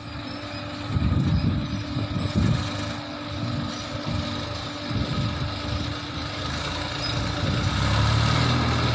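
Massey Ferguson tractor's diesel engine running, a low rumble that grows louder about a second in and settles into a steadier hum near the end.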